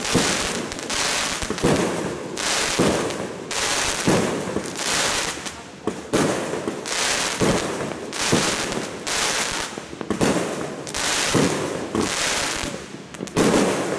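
Fireworks and firecrackers going off non-stop: overlapping bangs about once a second over a continuous crackle.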